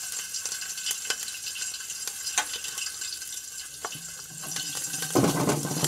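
Chopped garlic, ginger and green chilli sizzling in hot oil in an iron kadhai, with a spatula scraping and clicking against the pan as it is stirred. The sizzle grows louder a little after five seconds in.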